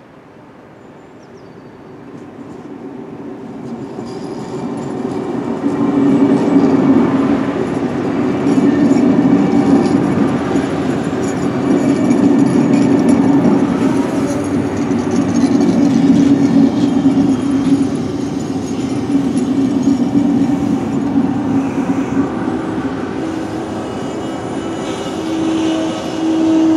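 A train coming closer, growing louder over the first six seconds, then passing steadily with a continuous rumble of wheels on rails and a steady low hum.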